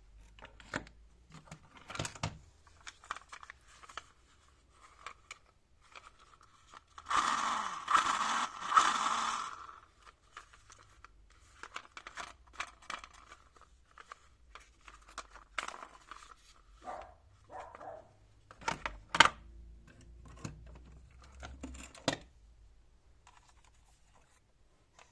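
Close handling noises from a toy police car and its packaging: scattered small clicks and knocks, with a burst of tearing and crinkling about seven seconds in that lasts about three seconds, and a sharp click a little past the middle.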